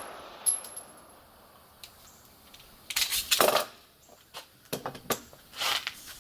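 A faint high metallic ring in the first second, then short metallic clicks and clatter, the loudest a cluster about three seconds in and a few lighter clicks near five seconds.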